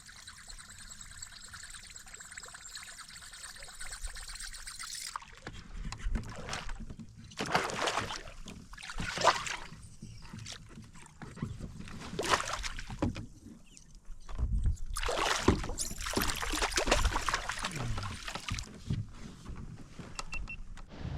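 Water splashing and knocking around a fishing kayak in loud, irregular bursts as a small bass is brought aboard, after a few seconds of steady water hiss.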